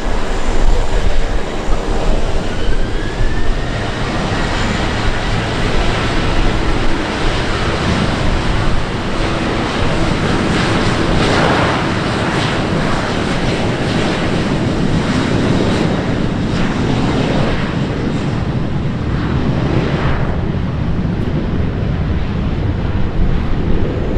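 Fixed-wing airplane's engines running loud and steady, with a faint whine rising in pitch a few seconds in.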